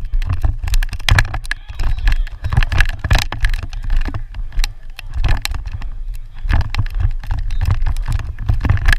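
Wind buffeting the microphone in an uneven, gusting rumble, with many sharp knocks and clicks scattered through it.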